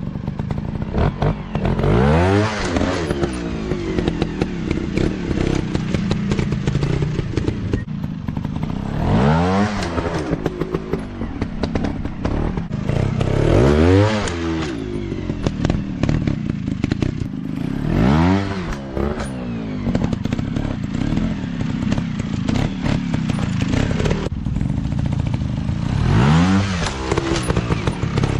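Dirt bike engine running and revving up hard, then falling back, about five times, with a dense rattling engine note between the revs.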